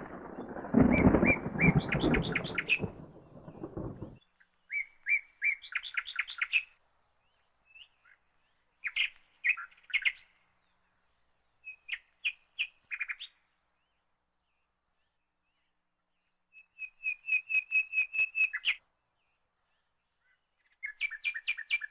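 Birdsong: about five short phrases of quick repeated chirping notes, each lasting one to two seconds, with clean pauses between them. A low rumble runs underneath at the start and dies away about four seconds in.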